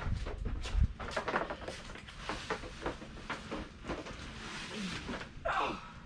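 Boxes and household items being handled and moved: a run of knocks, clicks and rustles, with two heavier thumps in the first second.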